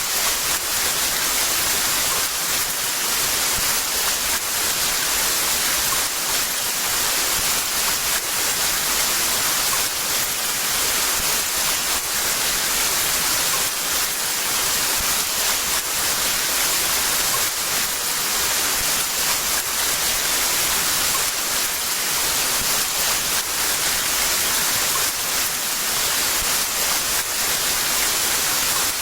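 Heavy rain falling in a steady downpour, an even hiss that holds at one level throughout.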